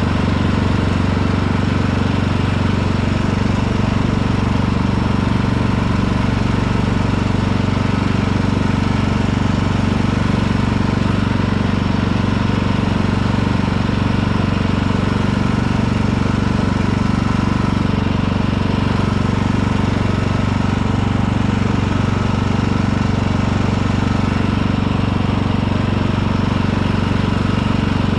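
Riding lawn tractor's engine running at a steady speed while the tractor is driven with the mower blades not engaged.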